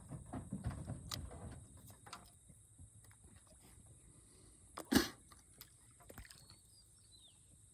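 Small pops and splashes at the water surface, then one sharp, louder splash about five seconds in, as bream (sunfish) strike floating sunflower seeds.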